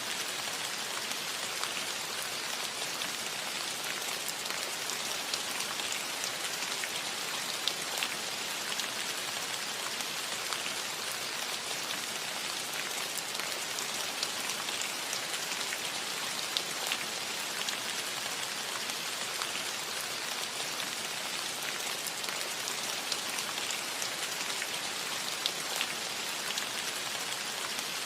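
Steady rain falling on a metal roof: an even hiss with many small, scattered drop ticks.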